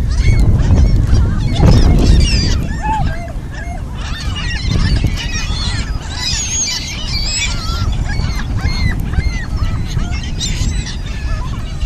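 A flock of geese honking and calling over one another, many short calls overlapping, over a steady low rumble that is loudest in the first couple of seconds.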